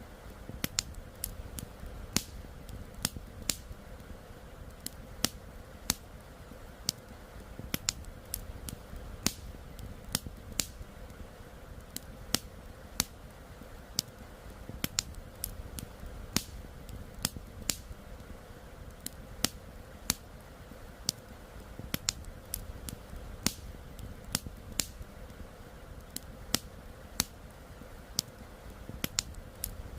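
Crackling campfire: sharp, irregular pops and snaps, roughly one or two a second, over a steady low rumble.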